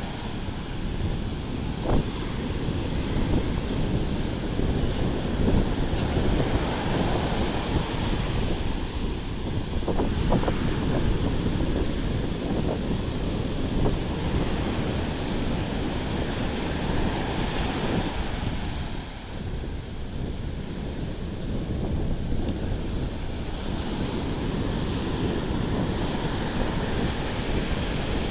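Sea surf washing onto a beach, with wind buffeting the microphone in uneven gusts.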